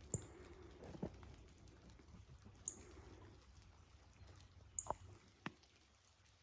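Near silence, with a few faint, scattered short clicks and taps.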